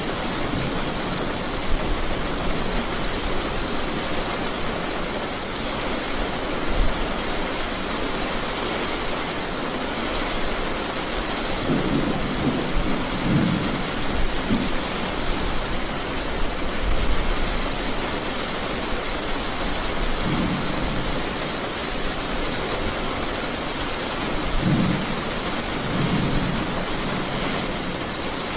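Steady heavy rain falling, with several low rumbles of thunder rolling through, the longest a little before halfway.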